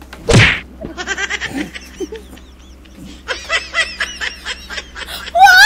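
A single thump less than half a second in, as faces are pushed down into a heap of flour. Then two people laugh hard in short bursts, growing louder and higher near the end.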